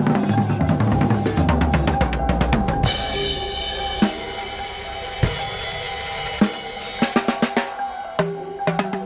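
Drum kit played freely: a busy groove of bass drum and snare for about three seconds, then a ringing cymbal wash broken by a few single hits, then quick strokes picking up again near the end. A steady held tone and low pitched notes sound underneath.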